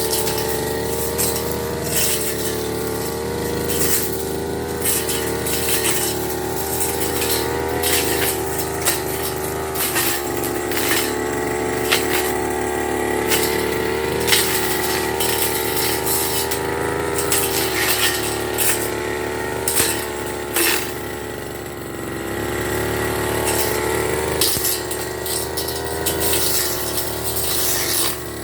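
Petrol brush cutter running steadily at high speed, its engine note wavering slightly, with frequent sharp clicks and swishes as it cuts through grass and brush. The engine eases briefly about three-quarters of the way through, then picks up again.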